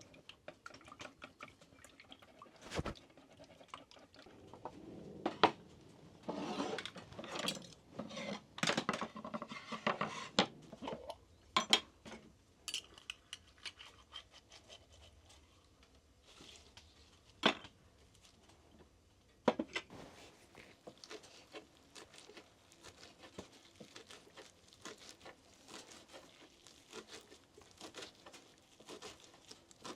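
Dishes, pots and cutlery being handled: irregular clinks and knocks, busiest between about five and twelve seconds in, then only scattered sharp clinks.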